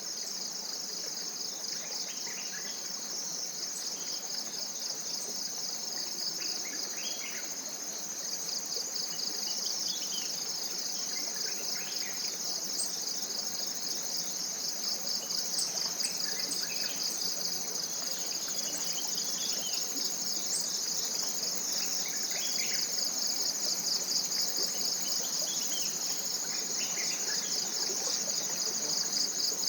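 Tropical forest insect chorus: a steady, fast-pulsing high trill, with scattered short bird chirps over it.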